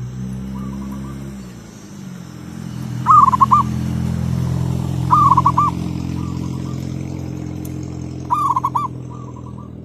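Zebra doves cooing: one dove gives three loud, rolling coos a few seconds apart, and fainter coos from another dove come in between. A vehicle engine hums underneath, loudest in the middle and fading toward the end.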